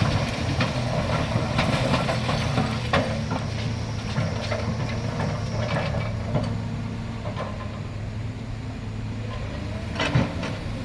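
Excavator's diesel engine running steadily, with scattered short knocks and clicks over the hum.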